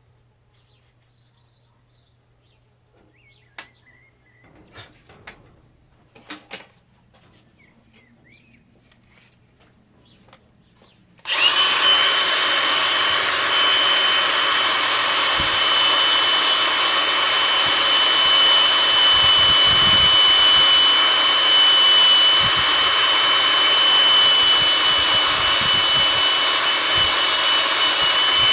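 A few light clicks and knocks from handling tools, then about a third of the way in a power tool starts abruptly and runs steadily, loud and hissy with a constant high whine.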